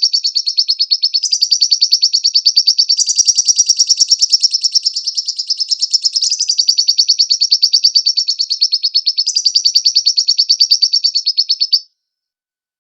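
Lovebird singing a long unbroken chatter of sharp high chirps, about ten a second, stepping slightly up or down in pitch a few times and cutting off suddenly near the end.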